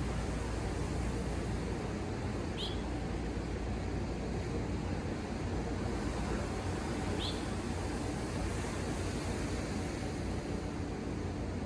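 Steady wash of ocean surf, with two short, high, rising bird chirps, one about two and a half seconds in and another about seven seconds in.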